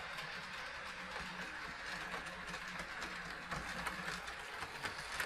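HO-scale model train running on the track: a steady mechanical hum from the locomotive's motor with the rolling noise of the boxcars' wheels on the rails. A few sharp clicks come near the end.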